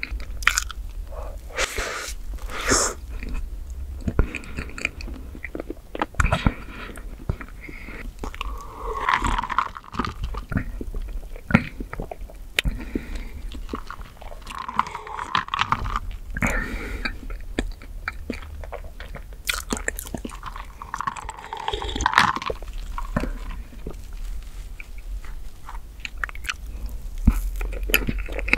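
Close-miked chewing and wet mouth sounds of someone eating chocolate whipped-cream cake, with many small sharp clicks. About halfway through there are swallows from a drink sipped from a plastic cup.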